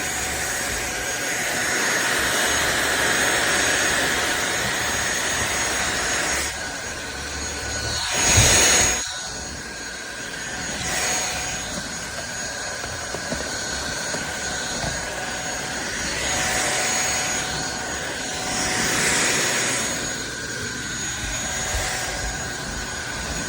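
SunSare X7A cordless stick vacuum cleaner running: a steady high motor whine over rushing suction airflow that swells and fades, with a louder surge about eight seconds in.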